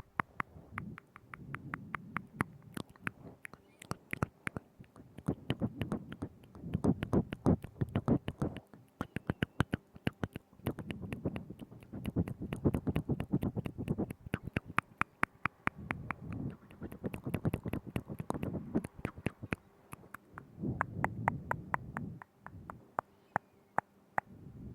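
Wet mouth sounds right at the microphone: rapid clicks and smacks of tongue and lips, in bursts of a couple of seconds with brief pauses between.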